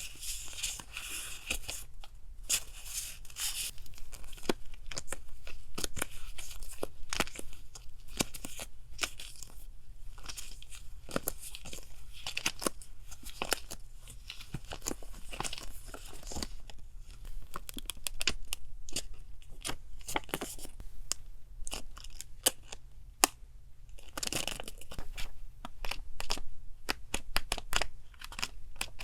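Paper being handled close up: crinkling, rustling and tearing, a dense run of small crackles.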